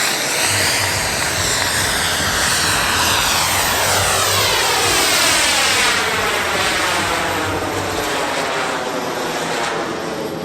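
Radio-controlled model aircraft making a fast pass, its engine noise rushing by with a sweeping, phasing sound that eases slightly near the end.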